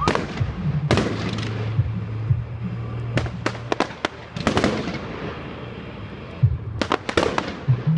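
Fireworks going off: sharp bangs with crackling tails, coming in clusters about a second in, between three and five seconds, and again around seven seconds.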